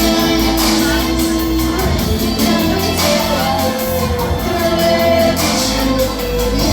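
Live band playing a song with a sung vocal, recorded from among the audience.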